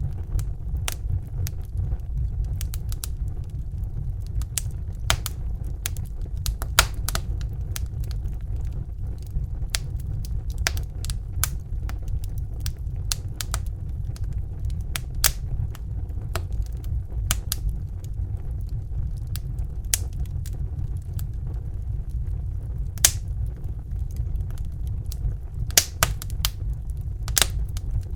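Crackling fire: irregular sharp pops and snaps, a few louder than the rest, over a steady low rumble.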